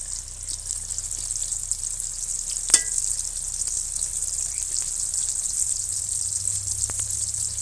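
Whole pointed gourds (potol) frying in hot oil in a metal karahi: a steady, high, crackling sizzle. A single sharp click stands out about two and a half seconds in.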